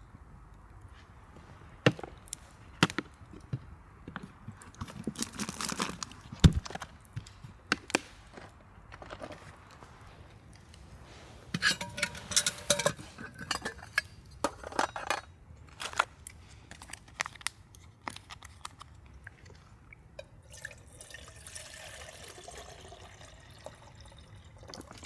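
Camp cookware being handled: a run of small knocks and clinks of metal pots and utensils, some briefly ringing, with a stretch of liquid pouring about twenty seconds in.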